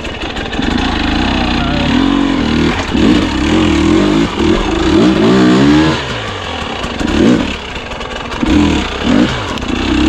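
Husqvarna TE250i single-cylinder two-stroke dirt bike engine revving up and down under throttle, with a long rise in pitch in the middle and several short throttle blips in the second half.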